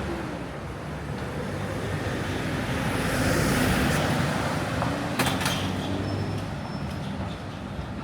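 A motor vehicle's engine running close by in street traffic, swelling to its loudest about three to four seconds in as it passes, with a few sharp knocks about five seconds in.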